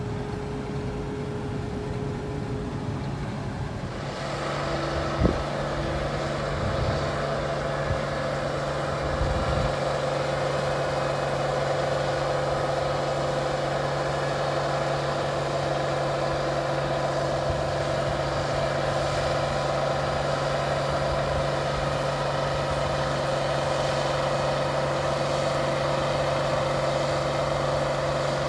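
1470 hillside combine running with a steady mechanical hum. About four seconds in, the sound rises and settles into a louder, steady drone with several held tones, with a sharp knock a second later and a few lighter knocks after it.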